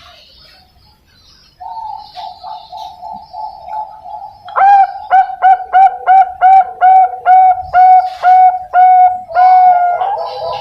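Young zebra dove (Bangkok perkutut) singing. About a second and a half in, a quick run of soft notes starts; then come about a dozen loud, evenly spaced coos, roughly three a second.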